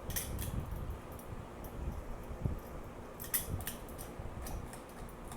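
Moss Tropical Breeze Deluxe ceiling fan spinning with a steady low hum, wobbling on a plain ball-mount bracket. A few light clicks come at the start and again about three and a half seconds in.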